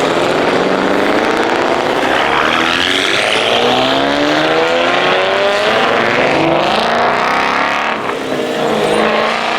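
Car engine revving hard under acceleration, its pitch climbing steadily for several seconds, dropping about eight seconds in and then rising again.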